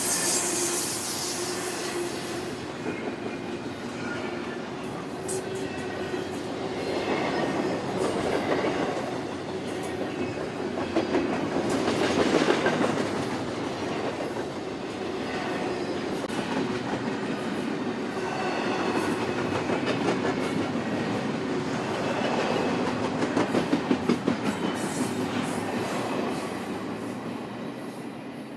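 Freight train cars rolling past at close range, with a steady rumble and rhythmic clickety-clack of wheels over rail joints; the sound swells and eases as cars go by, with a run of evenly spaced clacks near the end.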